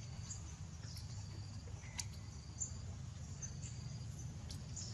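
Outdoor ambience: short, high chirps recurring several times a second, with a couple of sharp clicks, over a steady low rumble.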